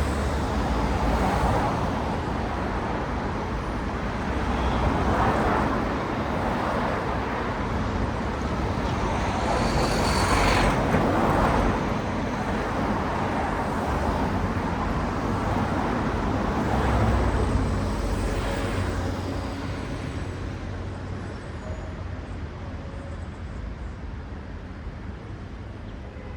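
Road traffic: cars passing close by one after another, the tyre and engine noise swelling as each goes past, then thinning out and getting quieter over the last few seconds.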